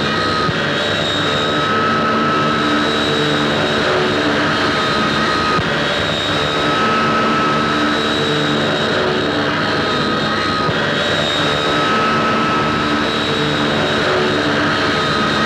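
Steady drone of a small propeller aircraft's engine, with a higher tone that comes and goes every few seconds.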